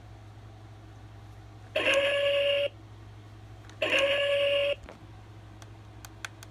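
Two electronic beeps from the Rocky the Robot Truck toy's speaker, each just under a second long and about two seconds apart, followed by a few faint clicks near the end.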